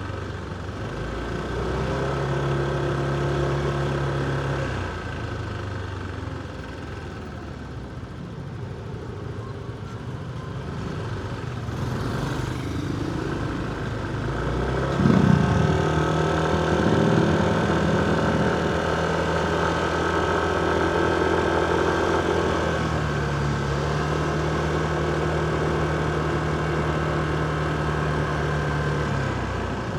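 Motorcycle engine running on the move, its pitch stepping up and down several times with throttle and gear changes, growing louder about halfway through.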